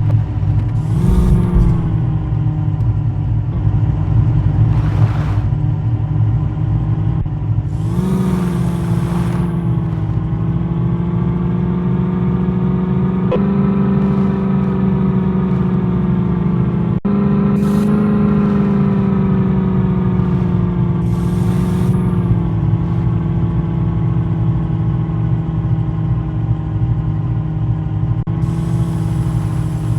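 Landi jeep engine running while driving, its pitch rising and easing back several times as the revs change, with a few short bursts of hiss.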